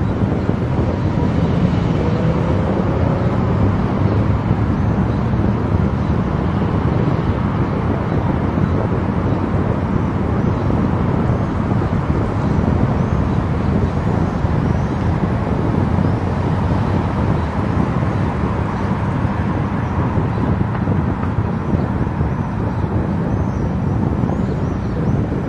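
Steady road, tyre and wind noise of a car driving at highway speed.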